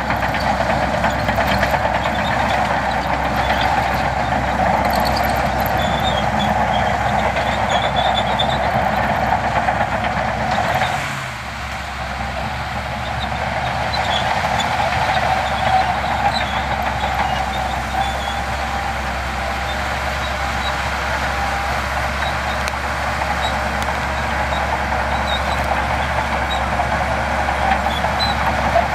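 Diesel engines of heavy earthmoving machinery running steadily, with a short drop in level about eleven seconds in.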